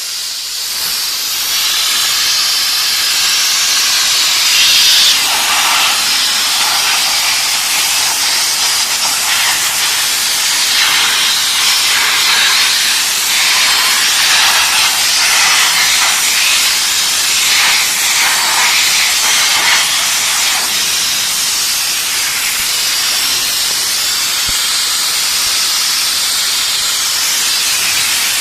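Steam jetting with a loud, continuous hiss from an LPG-fired steam car washer. It wavers in strength for a while, then holds steadier near the end.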